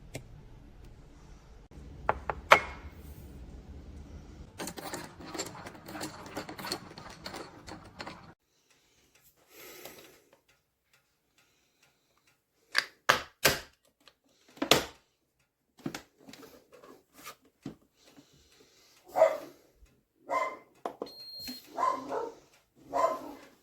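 Clicking and rustling for the first eight seconds, then a few sharp clicks midway. A dog barks about five times in short barks near the end.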